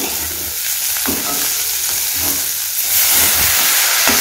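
Chopped tomatoes, onions and green chillies sizzling in hot oil in an aluminium kadai, stirred with a metal slotted ladle that scrapes the pan now and then. The sizzle grows a little louder about three seconds in.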